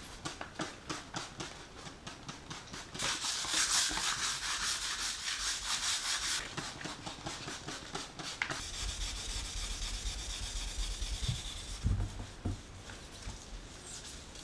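Sandpaper rubbing back and forth by hand on the metal of a large ship-engine valve during light sanding to remove residue. Quick, even strokes for about three seconds, then a louder stretch of steady rubbing, easing into duller handling noise with a few knocks near the end.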